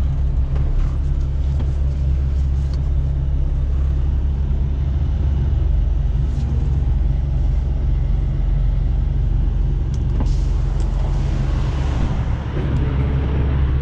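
International LT semi truck's diesel engine running steadily, heard from inside the cab: a constant low rumble and hum.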